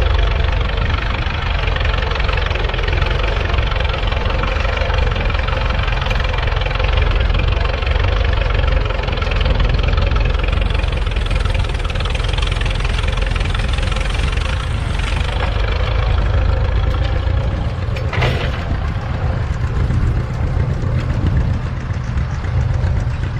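Tractor engine running steadily, with a heavy low rumble.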